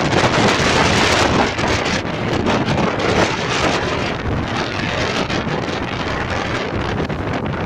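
Strong gusting wind buffeting the microphone: a loud, steady rush of wind noise, strongest in the first second or two.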